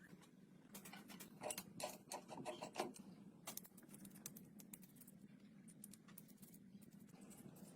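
Faint light clicks and taps, clustered in the first few seconds and sparse after, over a low steady hum.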